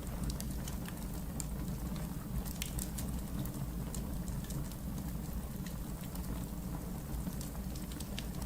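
Wood fire burning in a fireplace: a steady low rumble with scattered, irregular crackles.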